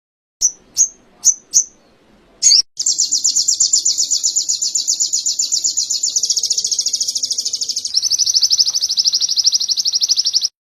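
A sogon (sogok ontong) songbird singing a canary-style song. It gives four short sharp chirps about half a second apart, then a long, very fast trill that changes pitch about six seconds in and again about eight seconds in, before cutting off abruptly.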